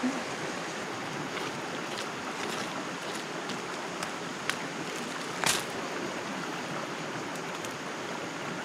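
Steady rush of running stream water, with a few light clicks and one sharper knock about five and a half seconds in.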